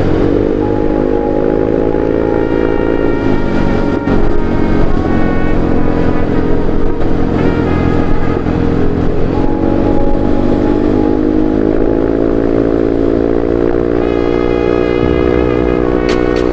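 Yamaha Mio i 125 scooter engine running under way, its revs climbing at the start, easing off about three seconds in, then climbing again and holding from about ten seconds, over a steady low rumble.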